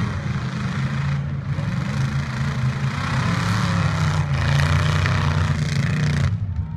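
Engines of demolition-derby trucks running loud and revving under load, with short dips in the noise about a second in and again near the end.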